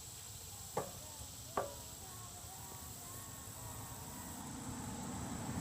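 Two sharp knocks about a second apart.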